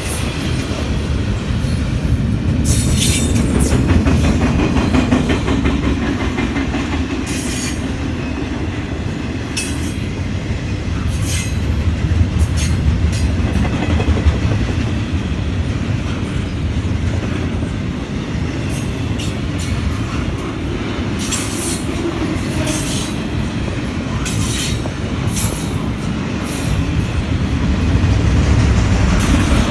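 Union Pacific double-stack intermodal train of container well cars rolling past: a steady rumble of steel wheels on the rails, with short high-pitched metallic squeals and clicks coming at irregular moments throughout.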